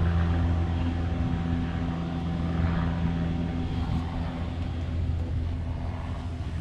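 A motor running steadily: a low hum at a constant pitch that fades a little near the end.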